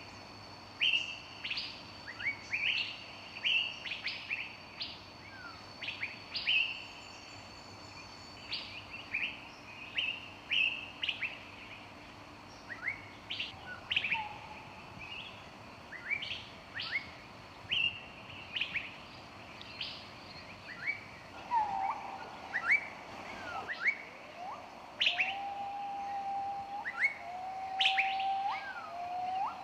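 Several forest birds chirping, with many short, sharp notes coming quickly one after another. In the last third a lower, drawn-out whistled call joins in and repeats.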